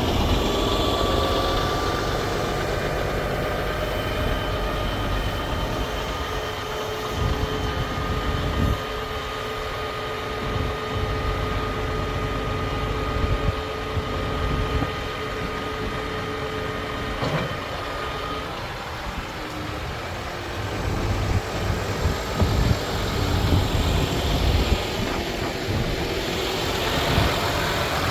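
MAN TGS 35.440 truck's diesel engine idling steadily.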